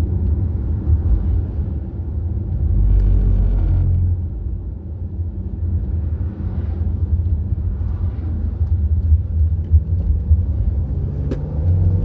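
Road vehicle cruising on a highway: steady low engine and tyre rumble, with the engine note rising near the end.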